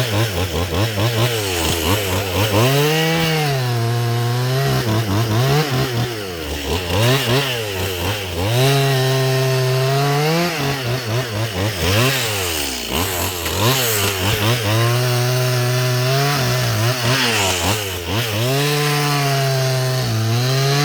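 Chainsaw engine revving up and down over and over as it cuts through limbs. It holds at high speed for a second or two at a time, then drops back toward idle.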